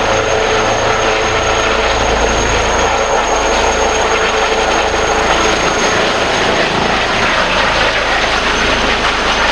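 Helicopter running close by: loud, steady rotor and engine noise with a thin, steady high-pitched whine over it.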